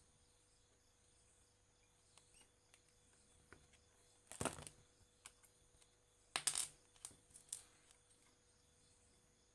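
Small hard objects clicking and clattering: a few light clicks, then two short bursts of sharp clinks, about four and a half and six and a half seconds in, over a faint steady hum.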